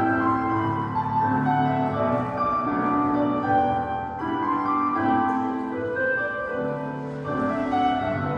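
Classical piano music, the accompaniment for a ballet class exercise.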